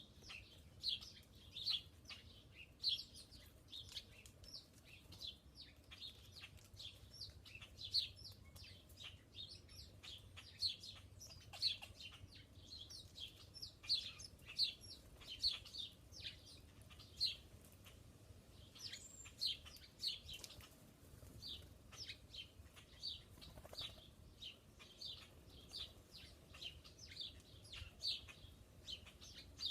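Small songbirds chirping: a steady series of short, high chirps, one or two a second.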